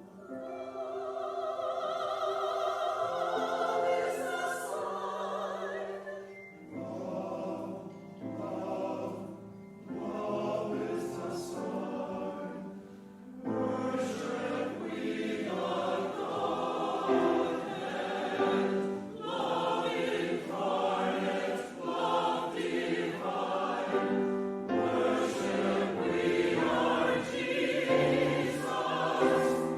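Church choir singing a Christmas choral piece in several parts, in phrases with brief breaks between them.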